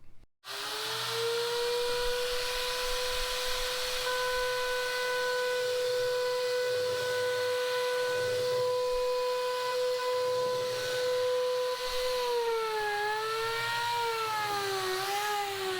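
Handheld electric power tool's motor running with a steady whine, then wavering in pitch a few times and slowing near the end as it is worked against the surface.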